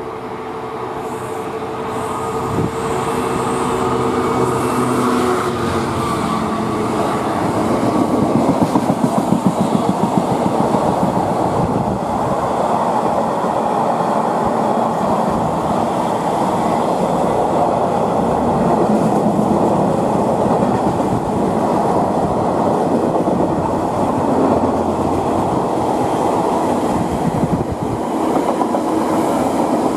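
Class 66 diesel locomotive approaching with its engine drone, then a container train's wagons rolling past with a rhythmic clickety-clack of wheels over the rails, strongest about eight to twelve seconds in, settling into a steady rolling rumble.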